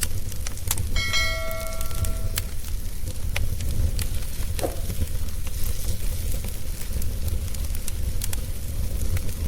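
Wood fire crackling, with sharp irregular pops over a steady low rumble. About a second in, a single metallic ring sounds for about a second and a half.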